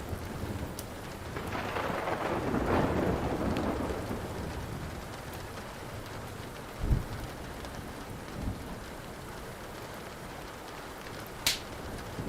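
Steady rain, with a roll of thunder that swells and fades about two seconds in. A short low thump comes about seven seconds in, and one sharp pop from the crackling wood fire comes near the end.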